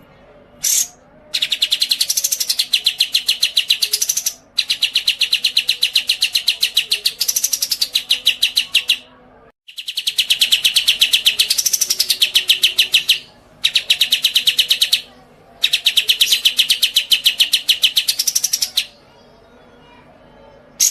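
A songbird singing: a few short chirps, then long trills of rapid, evenly repeated notes, each held for several seconds and rising briefly in pitch partway through, with short breaks between them.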